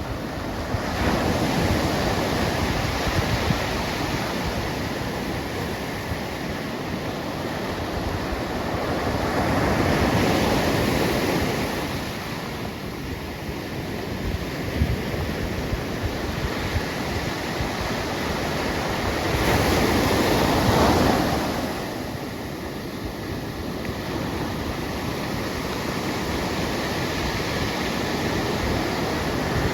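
Pacific Ocean surf: waves breaking and washing in a steady roar that swells every several seconds, with wind buffeting the microphone.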